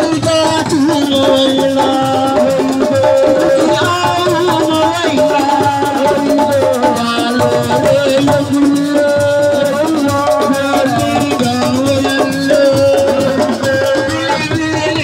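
Assiko band music: a steady shaker-like rattle and percussion under a sustained, wavering melody line.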